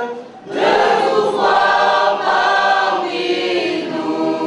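A classroom choir of students singing together in long held notes, with a brief breath-like dip about half a second in before the voices come back.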